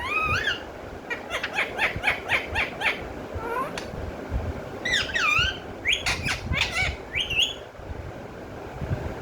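Pet parrot calling: a quick run of short, sharp notes, then several separate calls that swoop up and down in pitch.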